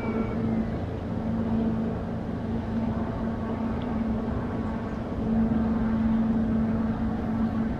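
Steady low hum of a thousand-foot Great Lakes freighter's diesel engines, four 20-cylinder General Motors diesels, running as she moves through the canal, over a noisy rumble. It swells a little louder about five seconds in, then eases back.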